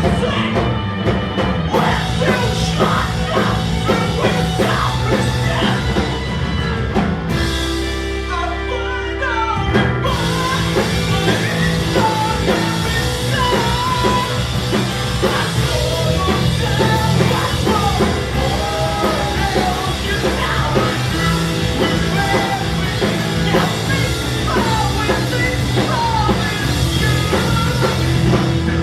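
Live post-hardcore rock band playing a song, full band with drums. The drums and cymbals drop out for about two seconds, a quarter of the way in, before the full band comes crashing back.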